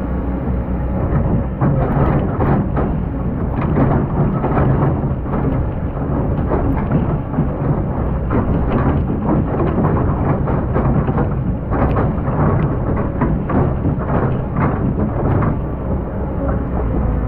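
Excavator's diesel engine running with a steady low rumble, under a dense crackling rattle of sand and stones being shifted by the bucket from about two seconds in until near the end.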